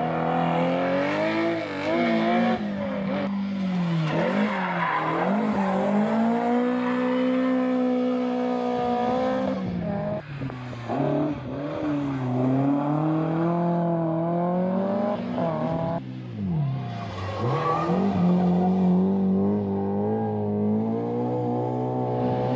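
Historic rally car engine at full stage pace, revving up and falling back again and again through gear changes and throttle lifts, with sharp drops in pitch about halfway through and again later.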